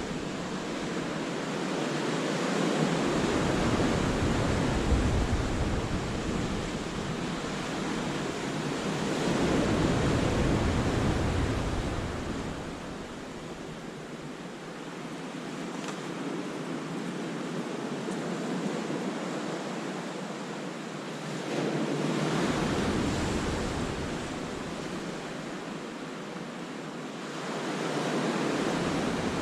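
Sea waves breaking and washing into a rocky cove, the surf swelling and falling back in several big surges with quieter wash between them.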